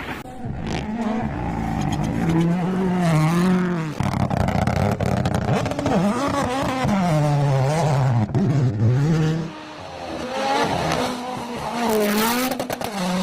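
Rally car engine revving hard, its pitch climbing and dropping again and again through gear changes and lifts. There is a brief dip in loudness about ten seconds in.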